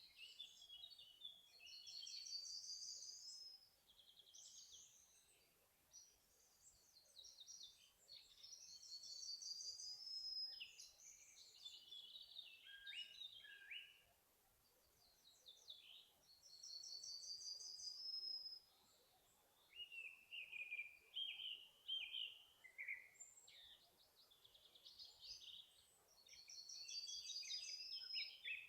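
Faint songbirds singing in a forest: one bird repeats a short phrase of quick, rising notes about every eight seconds, with other birds' chirps and trills in between.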